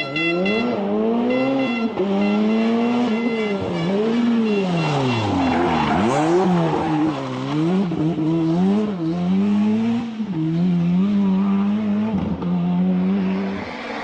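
Rally car engine at full effort, its pitch climbing and dropping again and again as it revs, shifts and lifts off, with one deep fall about six seconds in.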